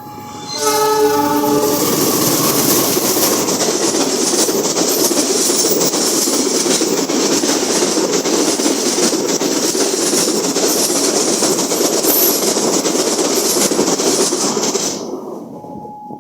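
CC 206 diesel locomotive sounding a short multi-tone horn blast as it arrives, then the passenger train passing close at speed: a loud, steady rush of wheels on rail and carriages that fades away about fifteen seconds in.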